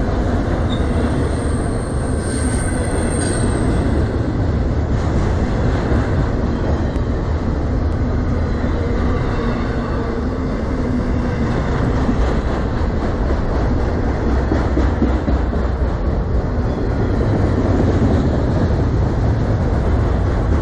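Autorack freight cars rolling past close by: a loud, steady rumble of wheels on the rails, with a thin high squeal for a couple of seconds about a second in.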